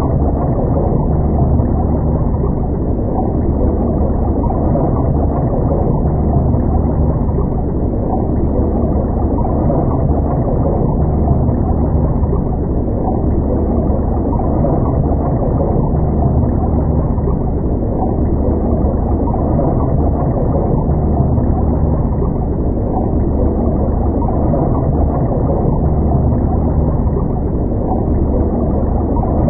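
Steady, muffled drone of a boat engine running at a constant speed, with a low hum.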